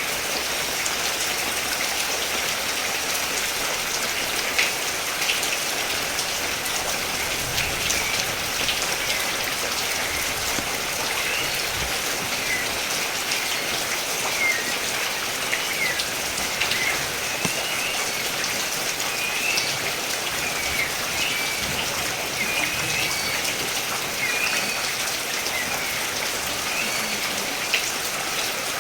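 Steady rain falling on a surface, with many individual drops ticking. Short high chirps repeat every second or two behind the rain.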